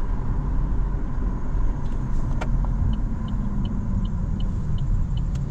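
Steady low road and engine rumble inside a moving car's cabin. About halfway in, the turn-signal indicator starts clicking at an even pace for a left turn.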